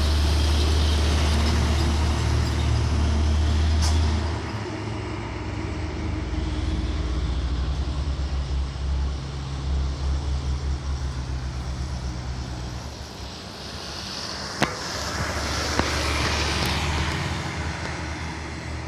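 Heavy trucks running past on the road: a loud, low engine drone for the first four seconds, then lower, uneven traffic noise, with two short clicks about a second apart in the second half.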